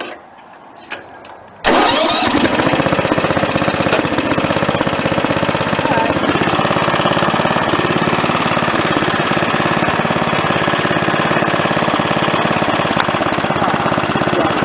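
Wheel Horse A-800 Ranger lawn tractor engine starting, after a couple of faint clicks. It catches at once, a little under two seconds in, and then runs steadily.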